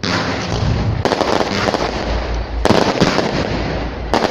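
Fireworks display: a loud burst right at the start, then sharp bangs about a second in, near three seconds and near the end, over continuous crackling and low rumbling from overlapping shells.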